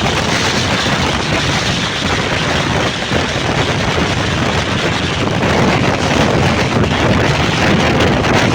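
Steady wind rushing over the microphone on a moving motorbike, mixed with road and engine noise.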